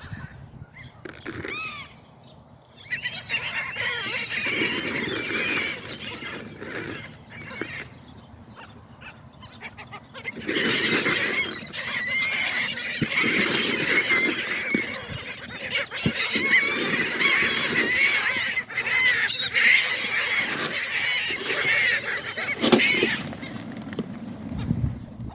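A crowd of seagulls calling over one another, many voices at once, in two spells: a short burst a few seconds in, then after a lull a longer stretch of dense calling that stops shortly before the end.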